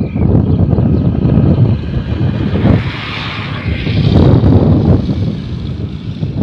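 Strong wind buffeting the microphone: a loud, low rumble that swells and eases with the gusts.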